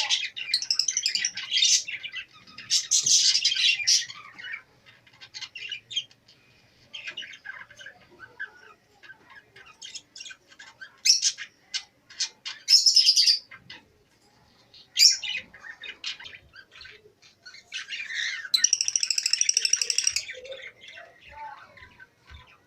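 Many caged small parrots (cockatiels, lovebirds and budgerigars) chirping and squawking over one another, with loud squawks scattered throughout and a long harsh, buzzing call near the end.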